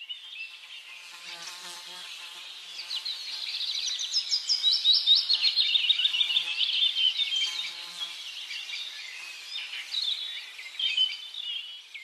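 Birds chirping and trilling in a dense, high-pitched chorus, loudest in the middle with fast runs of short falling notes.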